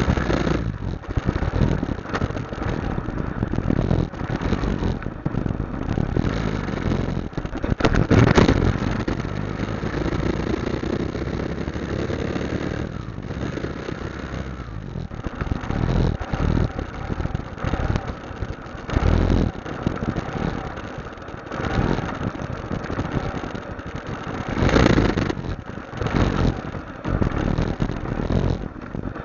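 Motorcycle engine running during a ride on the road, the noise rising and falling, with louder surges about eight seconds in and again near twenty-five seconds.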